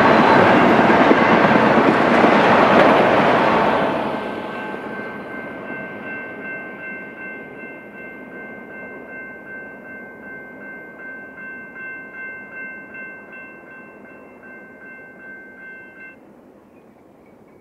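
The last autorack cars of a freight train roll past with a loud rumbling clatter, which falls away about four seconds in. After the train has cleared, the grade-crossing warning bell rings on in steady pulses and stops shortly before the end, as the gates lift.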